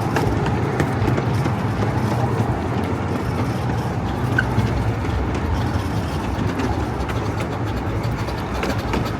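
Small coal-fired steam train running along its track, the cars rattling and clicking steadily over the rails with a low rumble.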